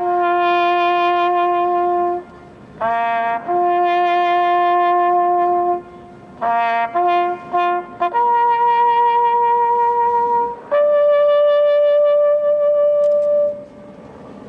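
A bugle call played on a single bugle: long held notes linked by quick short figures, all on the bugle's few natural notes, ending on a long high note that stops about a second before the end.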